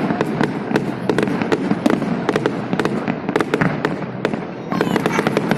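Fireworks display: many sharp bangs and crackles of bursting shells in quick, irregular succession.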